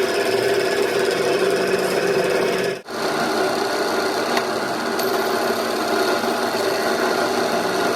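A workshop machine or power tool running steadily, with a brief cut-out a little under three seconds in.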